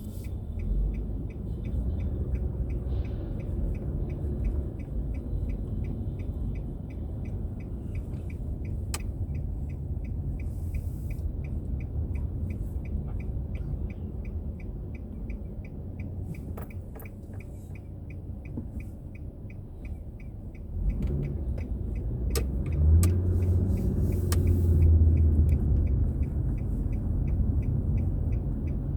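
Car driving, heard from inside: steady low rumble of engine and road, with a faint regular ticking about two or three times a second. The rumble grows louder and fuller about two-thirds of the way in.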